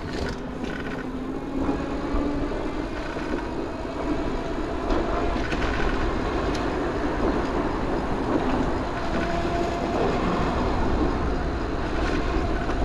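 Steady rumble and hum of a Toronto streetcar running close by in street traffic, with wind rushing on the microphone of a moving bicycle. The noise grows slightly louder about four seconds in.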